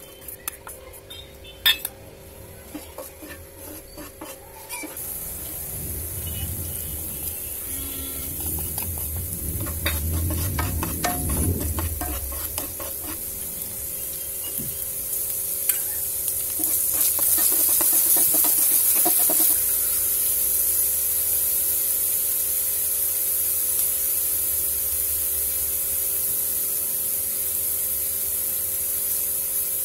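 Chopped green chillies and then diced onions sizzling in hot oil in a non-stick frying pan, stirred with a wooden spatula that scrapes and taps the pan. Clicks and knocks come first, then the sizzle starts about five seconds in and gets louder about halfway through, with a faint steady hum underneath.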